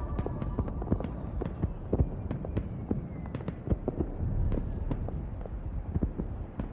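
Irregular sharp crackling pops over a low rumble, with no clear melody.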